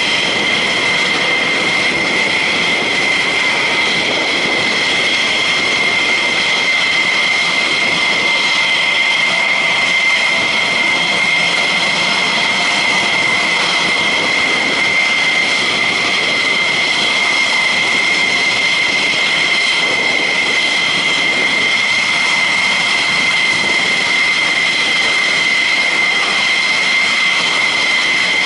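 Jet engines running steadily at ground idle, a constant high-pitched whine over a rushing noise, with no rise or fall.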